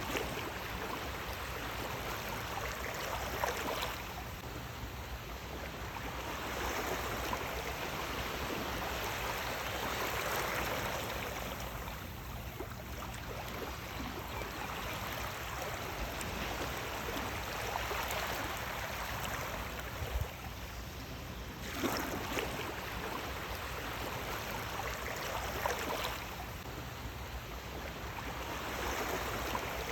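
Sea waves washing in, the rush of water swelling and easing every few seconds, with brief splashes.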